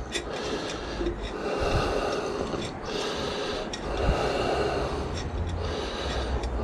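A man breathing hard with effort, in about three long breaths, as he works to get a part off with hand tools, with a few light metal clicks from the tools.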